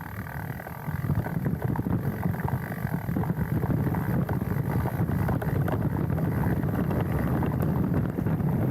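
Specialized Stumpjumper mountain bike riding a dirt trail, heard from a handlebar-mounted camera: tyres rumbling over rough ground with constant small rattles and knocks from the bike, and wind on the microphone. It gets louder about a second in.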